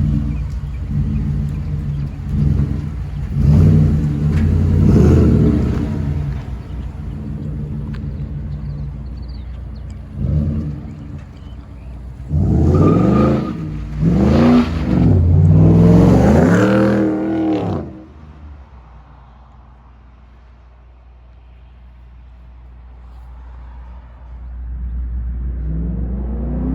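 2014 Ford F-150's 5.0 Coyote V8 with the muffler deleted and the resonator still on, revved in a series of rising-and-falling blips, three of them quick and close together past the middle. It then drops to a low, quiet idle and begins to rev again near the end.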